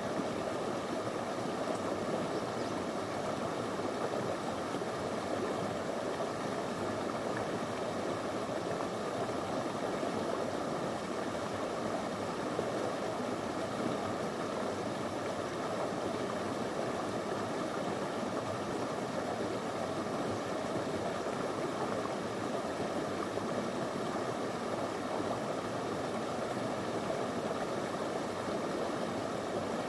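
A small, shallow river flowing over stones, a steady even rush and babble of water.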